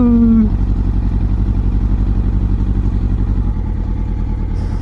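Yamaha R1 superbike's inline-four engine idling steadily, with an even, low pulsing beat.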